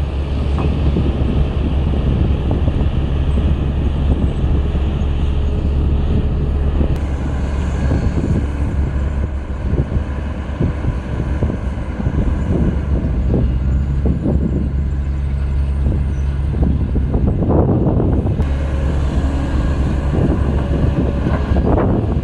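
Kobelco SK200 excavator's diesel engine running steadily under work, with irregular clanks and rattles that grow heavier about three-quarters of the way through and again near the end.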